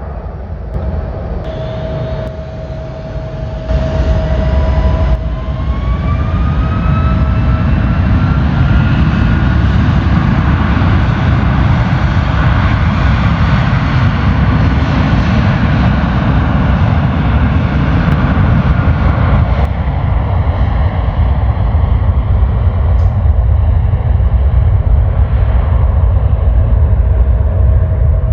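Jet airliner engines spooling up: a whine rises in pitch over a few seconds and the low rumble grows loud and stays steady.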